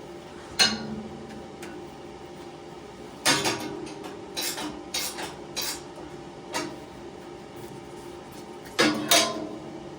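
Irregular metal clanks and knocks on a steel cooling tank and its straps, each ringing briefly: one sharp clank about half a second in, a run of lighter knocks through the middle, and two loud clanks close together near the end.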